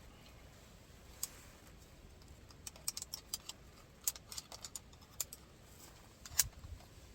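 Firewood crackling as it burns in a Solotour three-sided wood stove: scattered faint sharp pops and snaps at irregular intervals, bunched in the middle, with the loudest pop near the end.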